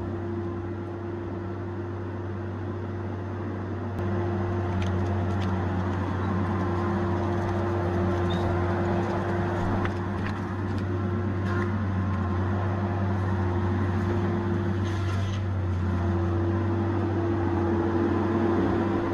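Tigercat 870C feller buncher's diesel engine running steadily, a constant deep drone with a steady higher hum over it. It gets a little louder about four seconds in.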